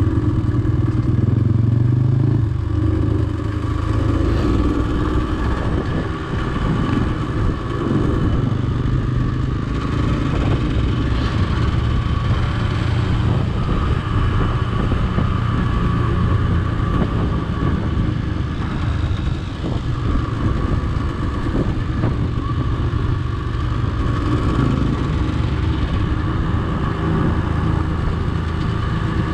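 Off-road motorcycle engine running steadily at low to moderate revs while the bike is ridden, its pitch rising and falling a little as the throttle changes.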